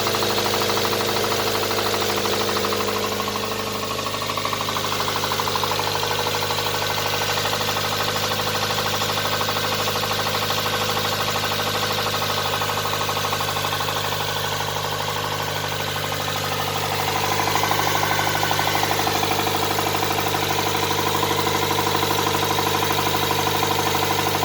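Nissan R'nessa engine running at a steady speed with a rapid, continuous knock from spun bearing shells, the sign of a failed bottom end.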